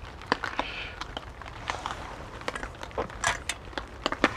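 Steady rain with irregular sharp drops tapping close by.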